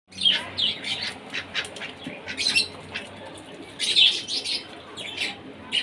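Pet ducks calling in a string of short, high squawks, several a second, loudest near the start and again around the middle.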